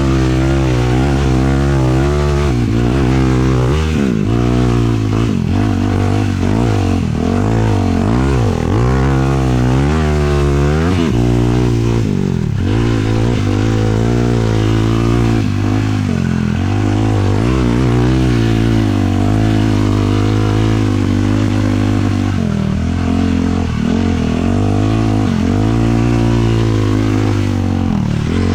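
450 cc sport quad's single-cylinder four-stroke engine running hard while riding in sand, its pitch rising and falling over and over as the throttle is worked.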